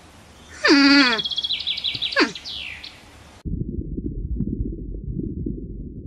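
An animal call sliding steeply down in pitch, followed by a run of high chirps and squeaks. About three and a half seconds in, it cuts abruptly to a steady low rumbling noise.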